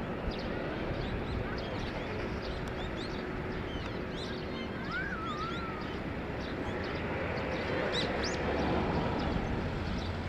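Jet airliner engines running as a steady, distant rumble that swells slightly near the end. Many small birds chirp over it, with one wavering whistled call about halfway through.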